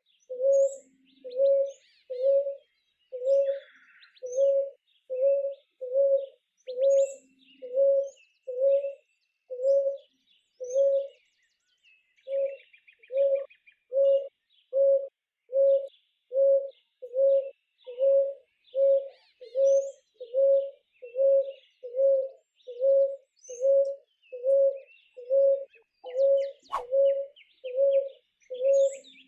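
A bird repeating a single low hooting note a little more than once a second, pausing briefly about midway and then carrying on, with small birds chirping faintly behind it.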